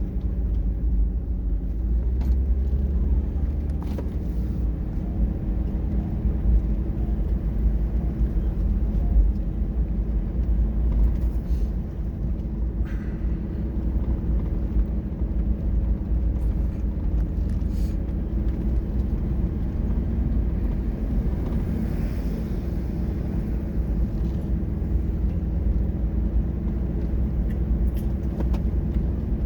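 A motor vehicle's engine running steadily, a low rumble with a held hum and a few faint clicks.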